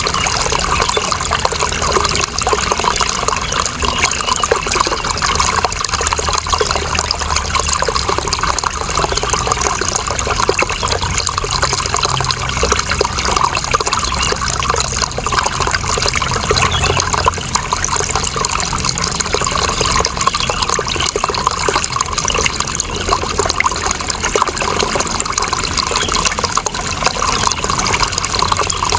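Running water flowing steadily, a continuous dense rush with a fine, bubbling texture and no breaks.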